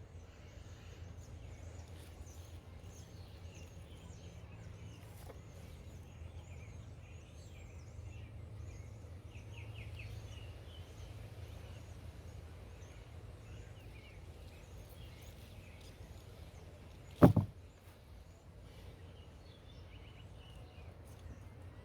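Outdoor background: a steady low rumble with faint bird calls, broken by one sharp knock about seventeen seconds in.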